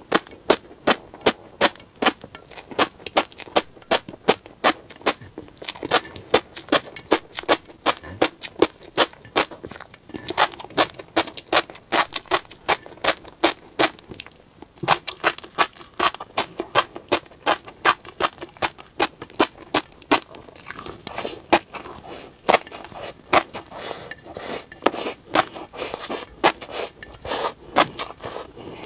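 Tobiko (flying fish roe) popping and crackling in the mouth as it is chewed close to the microphone: a steady run of sharp little clicks, several a second, with a short lull about halfway through.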